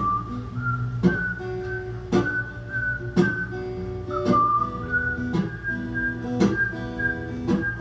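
Acoustic guitar strummed with a strong accent about once a second, while a whistled melody runs over it in an instrumental break between verses.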